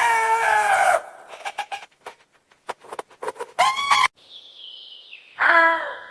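Farm animal calls: a long falling call, goat-like, ends about a second in. Then come scattered clicks and short calls from chickens, with one more falling call near the end.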